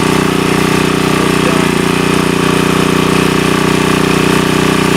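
Sportsman GEN2000 generator's small four-stroke engine running steadily at a constant speed after its carburetor was replaced.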